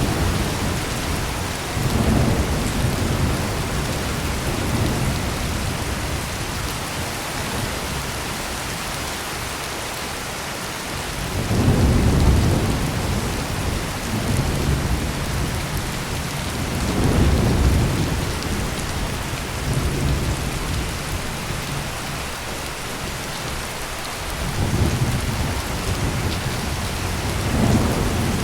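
Heavy rain pouring steadily, with low rolls of thunder rumbling up and fading away about five times, the strongest about twelve seconds in.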